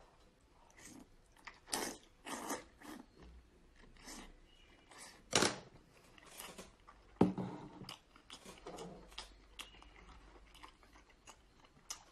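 A person biting into and chewing cooked seafood, with irregular wet mouth clicks and smacks, the loudest about two, five and seven seconds in.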